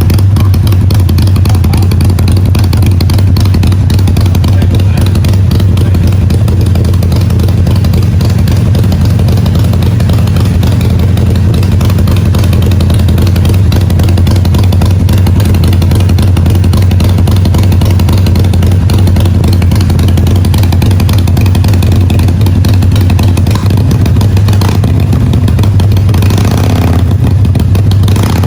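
Harley-Davidson Iron 883's 883 cc air-cooled V-twin running through Vance & Hines Grenade slip-on mufflers at a low, steady speed. The exhaust note is loud and even, rising briefly near the end.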